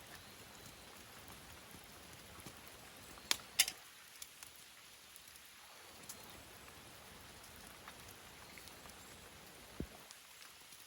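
Firewood burning in a fire pit, crackling faintly over a low hiss, with two sharp pops a little over three seconds in and another near the end.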